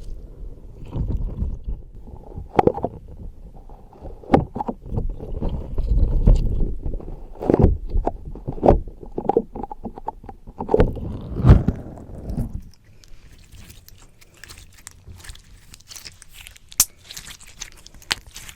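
Slime squished and pressed directly on a microphone: deep, muffled squelching with many sharp sticky pops. About thirteen seconds in it drops to a quieter, fine crackling as the slime pulls and sticks.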